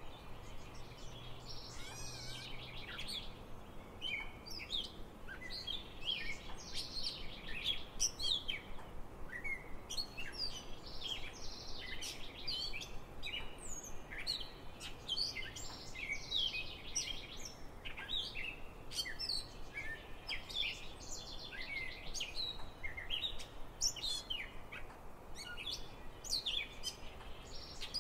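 Small birds chirping and singing continuously, a busy overlapping run of short, sharp high notes, many sliding down in pitch.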